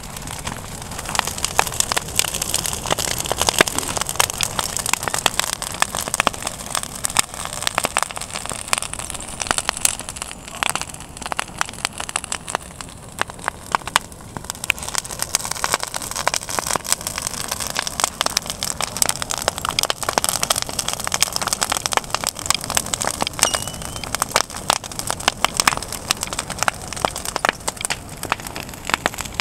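Wood bonfire of twigs, sticks and branches burning, with dense, rapid crackling and popping.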